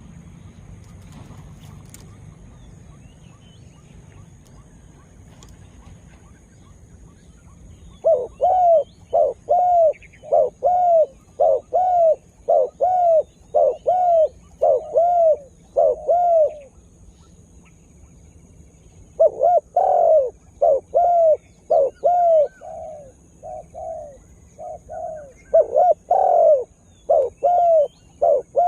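Spotted dove (tekukur) cooing in fast runs of short, repeated notes, about two a second. The first run starts about a quarter of the way in, and a second starts after a pause of a few seconds.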